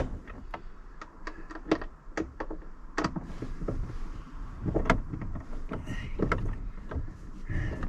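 Scattered, irregular clicks and knocks of hands and tools working a part loose under a car's dashboard.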